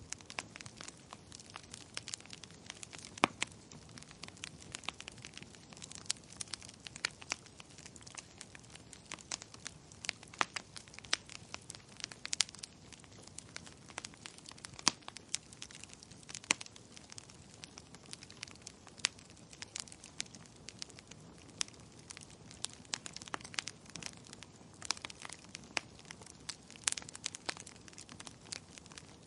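Wood fire crackling in a fireplace: irregular, rapid snaps and pops of burning logs over a soft, steady hiss.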